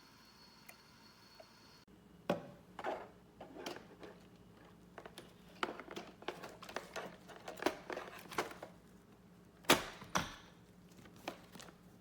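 Irregular handling noises: a string of short clicks, taps and crinkles, with one louder knock near the end.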